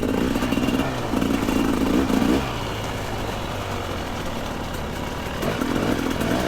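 Two-stroke dirt bike engine revving in short bursts, then running lower and steadier for a few seconds before picking up again near the end.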